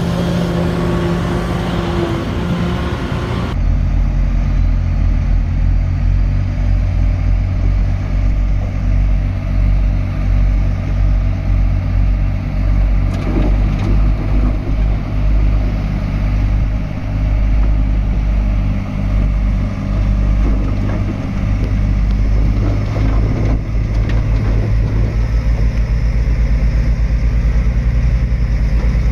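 Heavy diesel engine of earthmoving machinery running, a low steady drone with an engine note. The sound changes abruptly about three and a half seconds in. Its level then rises and falls unevenly through the middle and runs steadier near the end.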